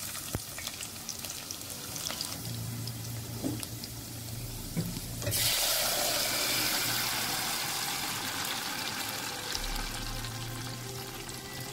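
Chopped onions sizzling in hot oil in a pot. About five seconds in the sizzle turns suddenly louder and brighter as red purée goes into the hot oil and fries, then slowly eases.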